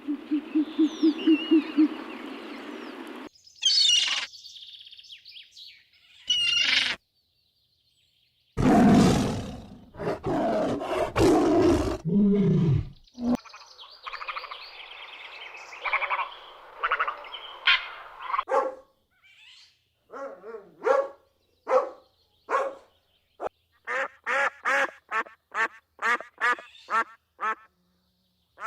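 A string of separate animal sound clips cut one after another: bird chirps and calls, a loud noisy roar around the middle, then a steady run of short repeated duck quacks, about two a second, toward the end.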